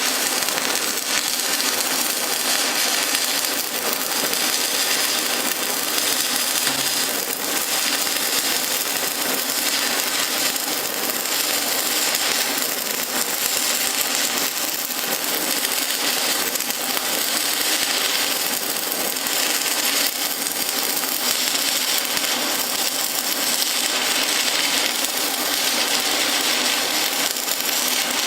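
Stick welding arc crackling steadily while a bead is run along a lap joint.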